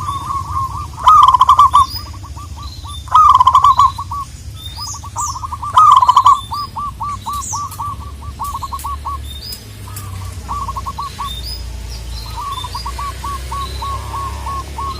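Zebra doves cooing: long runs of quick, short, repeated notes, with three much louder runs in the first six seconds. Smaller birds chirp faintly higher up.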